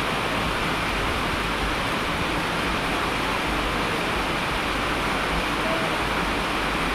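Steady rain falling, an unbroken even hiss with no single drops standing out.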